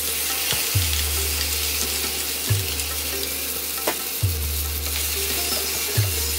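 Green masala paste sizzling and spluttering steadily in hot oil in a frying pan, stirred with a wooden spatula near the end. A low thump recurs about every second and a half under the sizzle.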